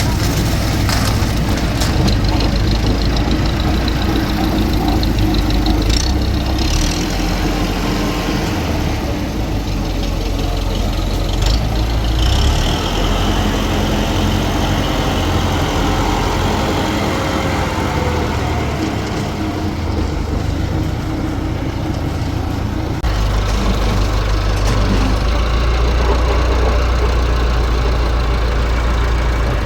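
Engine of the concrete-pouring machinery running steadily, its low hum stepping up suddenly about three-quarters of the way through.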